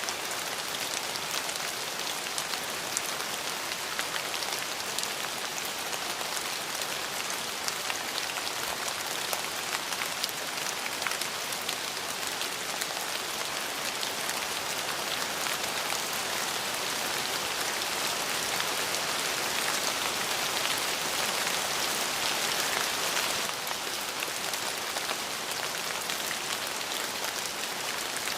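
Steady rain falling, a dense even hiss of many fine drops hitting a surface, swelling slightly about two thirds of the way through.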